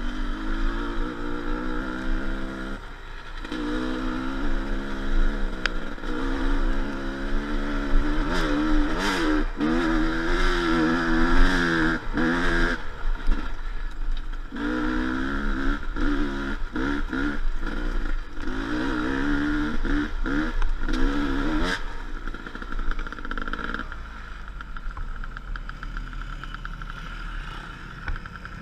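Enduro motorcycle engine revving up and down over and over, with short breaks between bursts of throttle. It goes quieter and steadier for the last several seconds.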